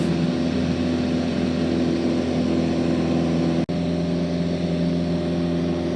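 Aircraft engine running steadily at full power during the climb just after lift-off, a continuous drone with a steady hum. The sound cuts out for an instant about two-thirds of the way through.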